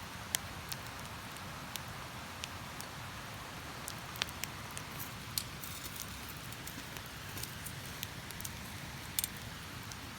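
Wood campfire crackling with irregular sharp pops, over the steady rush of a river.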